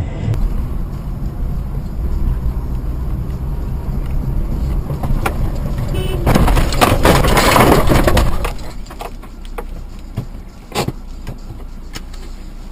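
Car on the road: steady engine and road rumble, with a loud rushing noise lasting about two seconds just past the middle, then quieter with a few sharp clicks.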